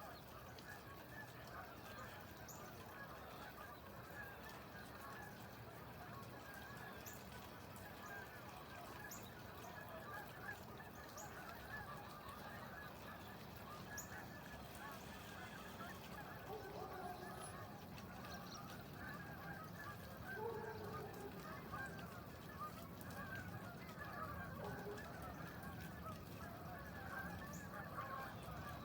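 A dense, continuous chorus of honking bird calls from a large flock, many calls overlapping, growing a little louder near the end.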